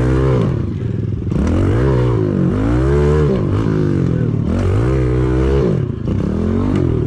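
Pit bike engine revving up and dropping back again and again while it is ridden over a dirt track, the pitch rising and falling about four times.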